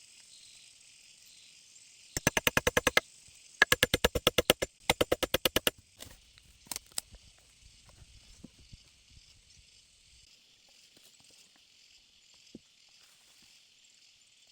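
A steady chorus of rainforest insects, broken by three quick runs of rapid sharp rattling, about a dozen pulses a second, each lasting under a second, then a few scattered ticks.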